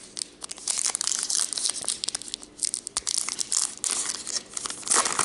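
A trading-card pack's crinkly wrapper being torn open and rustled in the hands, a dense crackling with sharp clicks, loudest near the end.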